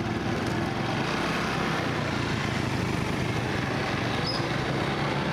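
A small engine running steadily at an even speed, with a constant hum.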